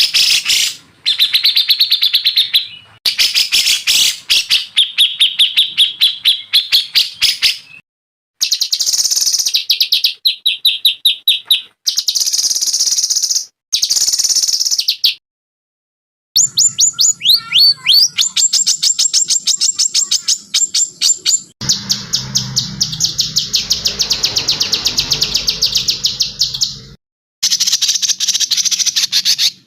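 Songbird song from a spliced compilation: fast trills and chattering runs of rapidly repeated high notes, one recording after another, each ending abruptly in a short silent gap. One stretch late on has a low hum and hiss under the song.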